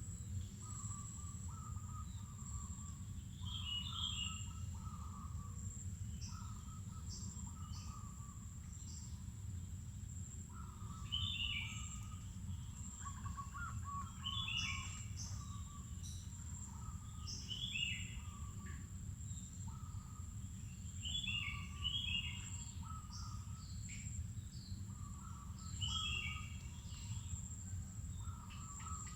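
Wild birds calling: short phrases repeated every second or two, with groups of quick falling chirps every few seconds. An insect's steady high-pitched whine runs underneath, over a low steady rumble.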